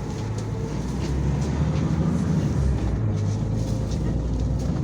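Engine and drivetrain of a moving city bus, heard from inside: a low, steady drone whose pitch shifts about a second in and again near the middle.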